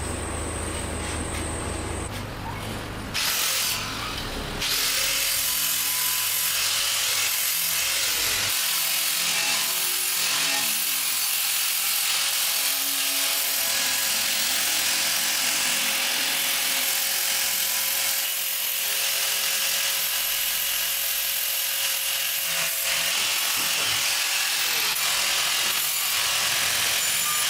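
A power tool running steadily on the truck bed's sheet metal, a harsh continuous hiss with a faint steady whine, which sets in a few seconds in after a low rumble.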